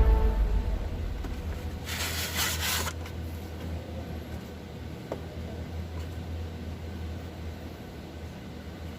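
Ford Expedition engine idling with a steady low hum; a short burst of hiss about two seconds in.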